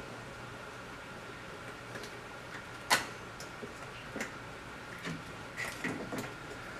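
Hands working a car's engine wiring harness and its plastic parts: one sharp click about three seconds in, then a scatter of lighter clicks and knocks.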